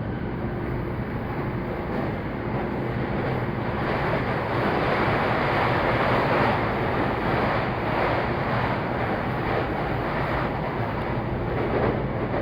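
Saikyō Line commuter rapid electric train running at speed, heard inside the car: a steady rumble of wheels on rail under a faint motor hum. The rolling noise grows louder a few seconds in and eases off again.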